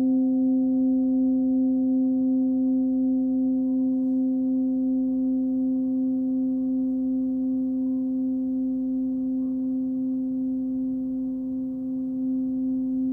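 Nepalese singing bowl, 16.3 cm across and pitched at 262 Hz (C), sounding one long steady tone with fainter overtones above. The tone wavers gently in loudness and fades slowly.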